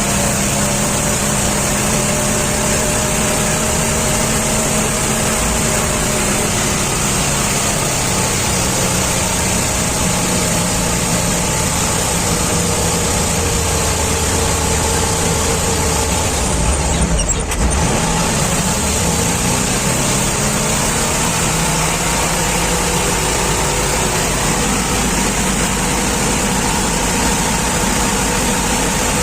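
Truck engine running steadily, its hum drifting slightly in pitch, with a brief low bump a little past halfway through.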